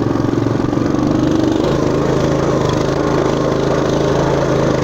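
Engine of a Motoland RT200 all-terrain motorcycle running steadily, its note shifting lower about a second and a half in.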